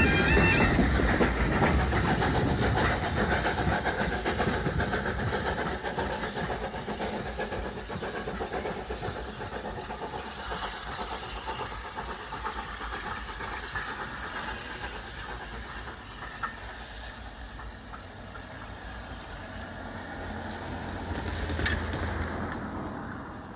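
Train of coaches rolling past on the track, wheels clacking, then fading steadily as the steam train draws away. A level crossing's warbling two-tone alarm cuts off in the first second.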